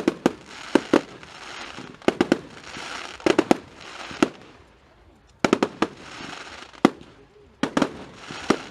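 Fireworks display: a dozen or so sharp bangs of bursting shells, many coming in quick pairs and triplets, with a hazy rumble between the bursts.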